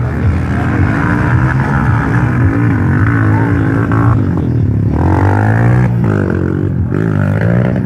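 Motocross motorcycle engines running hard and revving, with a steady drone and pitch rising and falling several times in the second half as the bikes rev through the gears.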